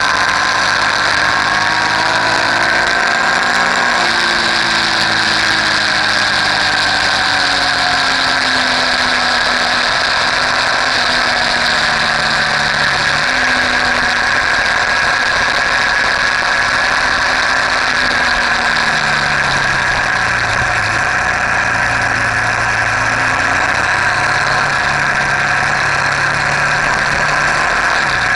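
Motorcycle engine running under way, its pitch sliding down and back up several times as the speed changes, over a steady rush of wind noise.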